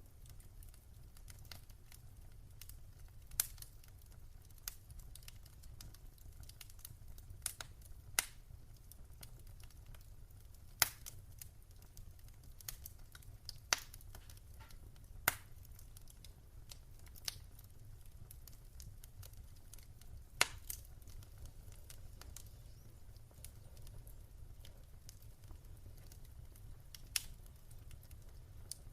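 Fire in a fireplace crackling: about ten sharp pops at irregular intervals over a faint, steady low rumble.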